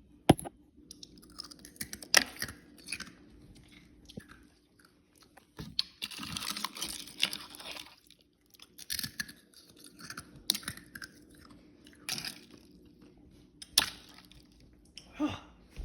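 A person chewing and eating soup, with irregular bursts of mouth noise and occasional sharp clicks.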